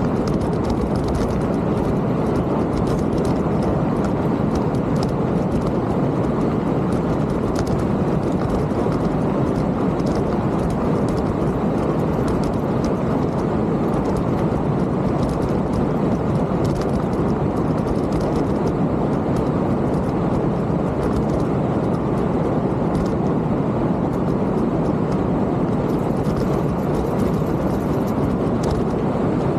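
Steady wind rush and tyre rumble of a mountain bike being ridden, with faint ticks of bike rattle scattered through.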